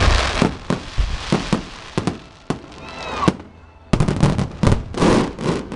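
Fireworks display: aerial shells and firecrackers going off in a string of sharp bangs, easing to a brief lull about halfway, then a dense volley of bangs near the end.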